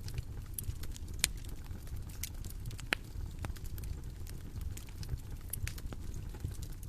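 Bonfire crackling: irregular sharp pops and snaps over a steady low rumble, with two louder pops, one about a second in and another near three seconds.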